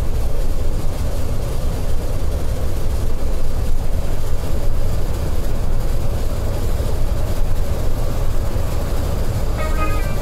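Steady low rumble of a Scania K410iB coach running at highway speed, engine and road noise heard from inside the cabin. A melody of background music starts up near the end.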